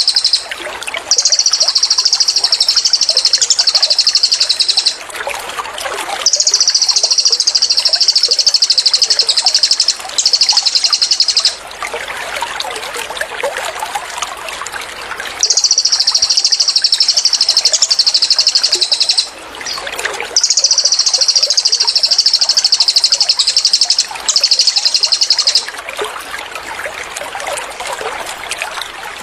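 Cililin bird singing its rapid, tightly packed high-pitched trill ('tembakan') in bursts of one to four seconds, often two close together, with short pauses between. Trickling, gurgling water runs underneath and is plainest in the pauses.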